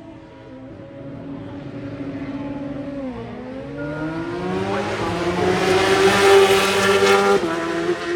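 Superbike racing motorcycle engine at high revs on the approach: the note dips about three seconds in, then climbs and grows louder as it accelerates hard, peaking just before the engine note drops suddenly near the end.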